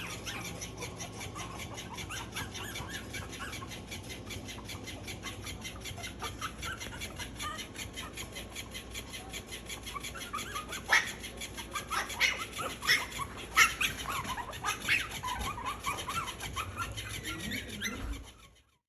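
Young Maltese puppies whimpering and squeaking with many short, high, wavering cries, and a few sharper, louder yelps or clicks about two-thirds of the way through.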